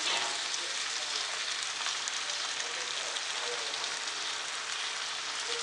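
Spiced onion-tomato masala sizzling steadily in a hot frying pan as curd is scraped in from a bowl with a wooden spatula.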